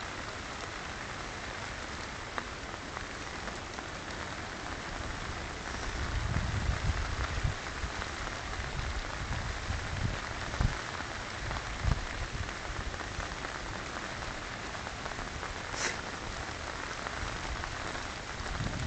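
Steady rain falling, an even hiss with patter, with irregular low rumbles and bumps on the microphone from about six seconds in.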